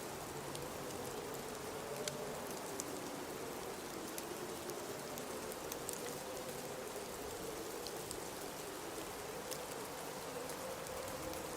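Blizzard wind: a steady hiss with a low howl that wavers slowly in pitch, sprinkled with faint scattered ticks.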